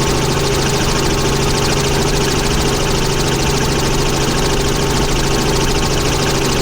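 Helicopter engine and rotor noise heard from inside the cabin during flight: a loud, steady drone with a fast, even pulsing.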